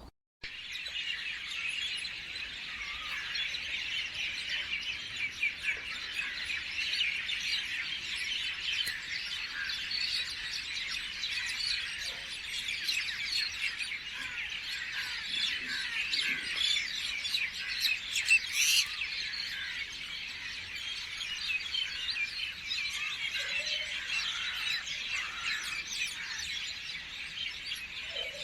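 Many small birds chirping at once in a dense, continuous chorus of quick, high chirps, with no single song standing out.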